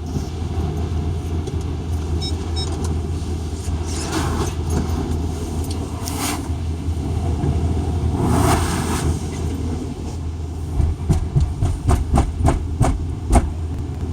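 Automatic car wash heard from inside the car: a steady low rumble, with three hissing bursts a few seconds apart and then a quick run of knocks and thuds near the end.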